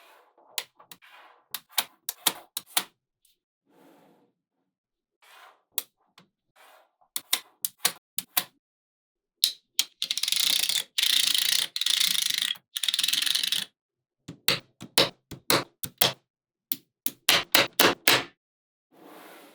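Small neodymium magnetic balls snapping and clicking together as they are handled, in quick runs of sharp clicks. About halfway through come three longer stretches of continuous rattling, a few seconds in all.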